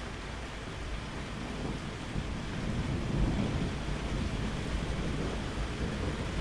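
Steady rain with a low thunder rumble that swells about halfway through and fades again.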